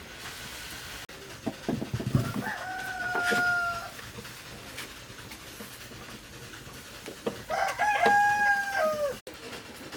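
Rooster crowing twice, each crow a held, pitched call, the second longer and dropping in pitch at its end. A few dull knocks come just before the first crow.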